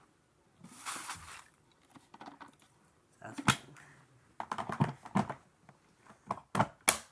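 Irregular snaps, crackles and knocks of Styrofoam being broken up and handled, with a short rustling burst about a second in and sharper snaps in the second half; no vacuum motor running.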